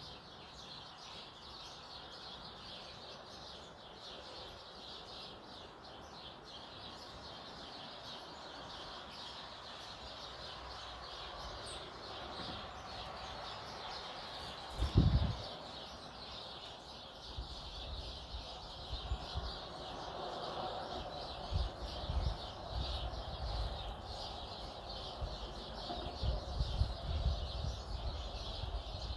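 Small wild birds chirping and chattering steadily at a feeding spot, with a scatter of dull low thumps in the second half and one louder thump about halfway through.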